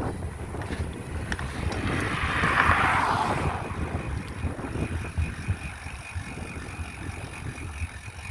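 Wind rumbling on the microphone, with a rushing noise that swells and fades about two to three seconds in.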